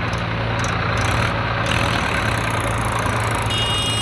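Tractor diesel engine running steadily, a low even hum.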